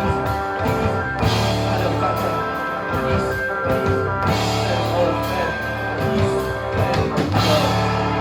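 Live rock band playing an instrumental passage: guitar chords ringing over a drum kit with a steady beat.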